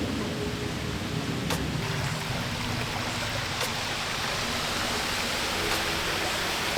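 Steady rush of flowing river water, a wide even hiss without any break.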